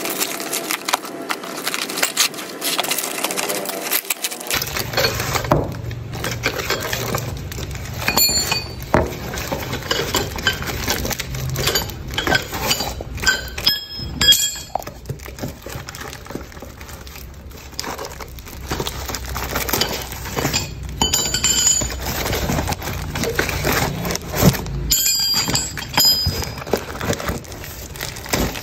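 A parcel being unpacked: crackly rustling of wrapping at first, then loose steel pieces (drill bits and a large steel ball) clinking and ringing as they are handled. A low steady hum runs underneath from about four seconds in.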